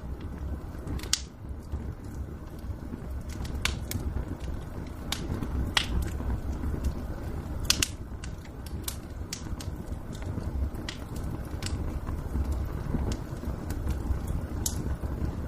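Wood fire crackling in a fireplace: sharp, irregular pops over a steady low rumble.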